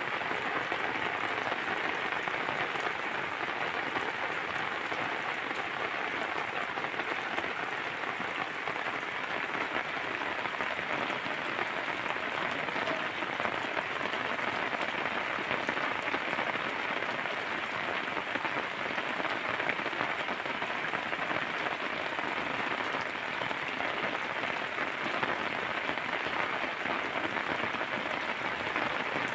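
Steady rain falling, an even, unbroken hiss of many drops that holds the same level throughout.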